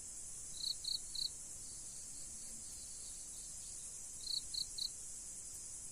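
Steady, high-pitched trilling of insects such as crickets. Twice, a quick series of three short chirps rises above it.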